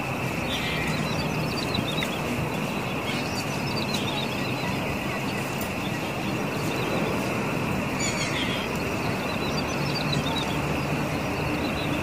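A small bird, named in the title as a ciblek sawah, gives short runs of quick chirping notes four times, a few seconds apart. Under it runs a constant high drone and steady background noise.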